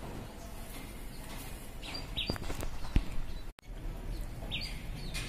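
A few short, high bird chirps over steady outdoor background noise, about two seconds in and again near the end, with one sharp click around the middle.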